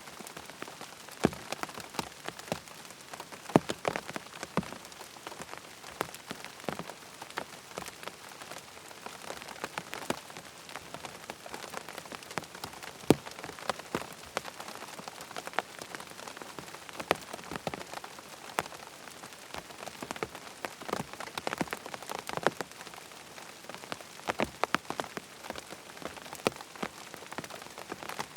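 Steady rain falling on tent fabric, a constant hiss with many sharp, irregular drop taps.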